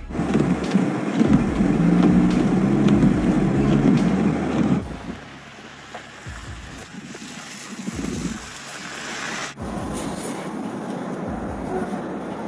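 Outdoor ambience in three clips cut one after another, with abrupt changes about five and about nine and a half seconds in: vehicles running with wind on the microphone.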